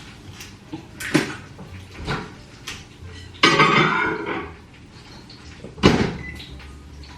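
Dishes and serving utensils knocking and clinking as food is served onto plates: several sharp knocks, with a longer scrape or rattle of about a second just past the middle.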